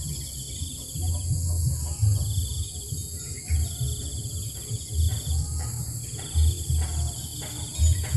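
Insects trilling in repeated phrases of about a second each, over a steady high insect hum, with uneven low thumps and rumbles.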